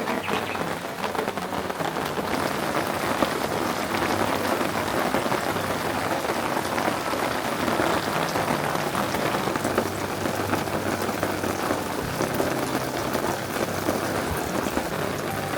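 Heavy rain falling steadily, with dense drops pattering on a tarp. A faint low steady hum runs underneath.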